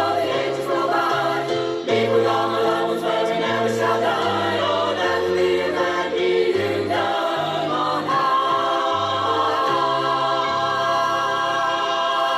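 A choir sings a gospel song in harmony, with a moving bass line. In the last few seconds it holds a long chord with vibrato.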